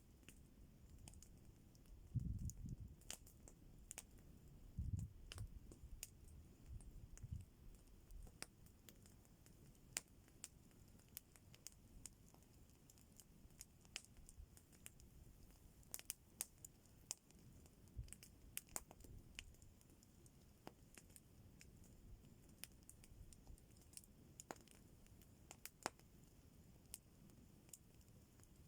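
Wood campfire crackling faintly with scattered, irregular sharp pops, and a few dull low thumps in the first several seconds.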